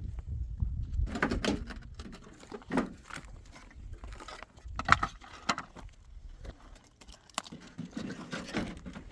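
Irregular knocks, taps and scuffs, the loudest about five seconds in, over a low rumble during the first second or so.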